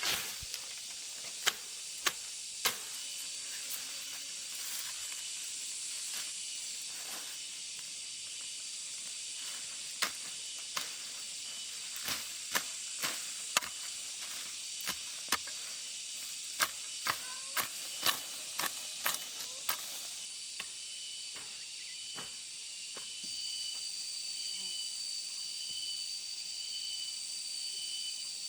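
A steady high chorus of insects with a pulsing trill, joined about two-thirds of the way through by a second steady high tone. Over it come many sharp, irregular knocks or taps, thickest in the middle.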